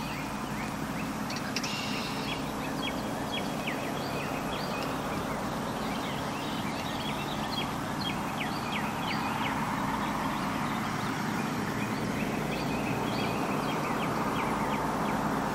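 Many short, quick bird chirps over a steady low hum and background noise.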